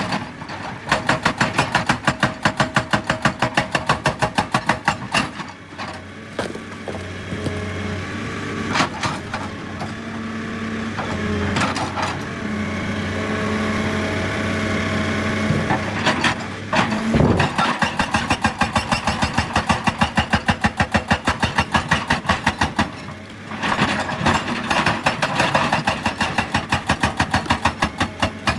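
Excavator's diesel engine running, with long spells of rapid, even pounding of several blows a second. These are broken by a stretch in the middle where only the engine is heard, at a steady pitch.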